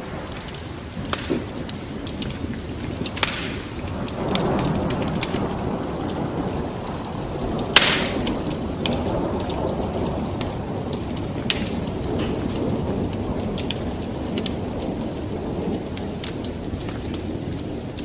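Wood fire crackling in a fireplace: scattered sharp pops and snaps over a steady low rush of flames that grows fuller about four seconds in. The loudest snap comes about eight seconds in.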